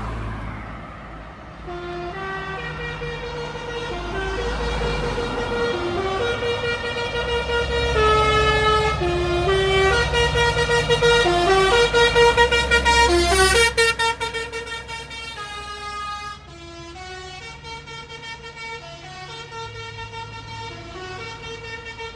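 Multi-tone musical air horn on a Scania truck playing a tune, note after note, over the low rumble of the truck's diesel engine. The engine rumble drops away about two thirds of the way through while the horn tune goes on.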